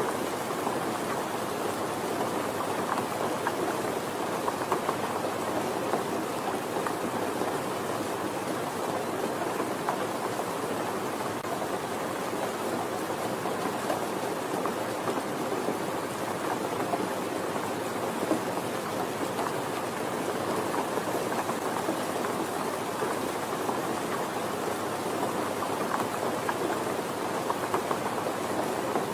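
Steady, soft rain falling, a dense even patter of drops.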